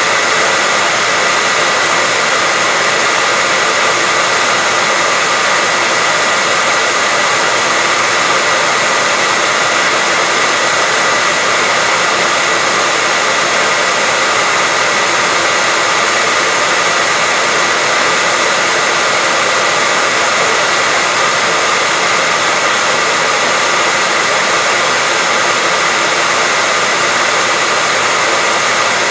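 Hair dryer blowing steadily, a constant whooshing noise with a high whine in it, played as continuous white noise to lull a baby to sleep.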